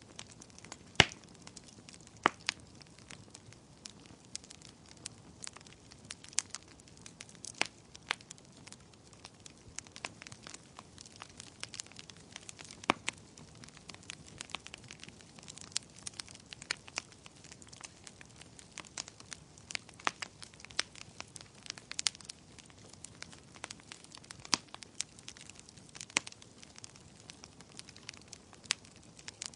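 Wood fire crackling in a fireplace: a soft steady hiss with frequent sharp, irregular pops and snaps, the loudest about a second in.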